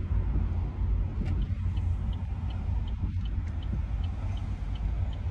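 Car cabin rumble from the road and engine while driving, with a turn signal ticking steadily at about two and a half ticks a second from about a second in.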